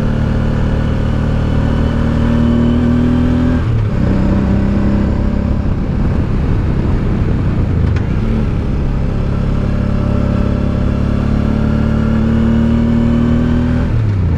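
Honda Deauville's V-twin engine pulling uphill under load. Its pitch climbs steadily, drops at a gear change about four seconds in, climbs again and drops once more near the end.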